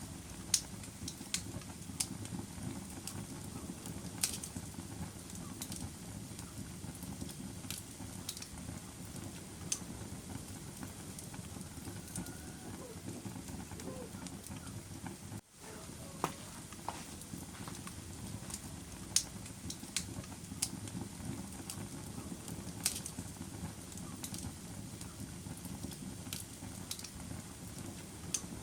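Wood fire burning in a fireplace: a steady low rumble of flames with sharp crackles and pops scattered irregularly throughout. The sound cuts out for an instant about halfway through.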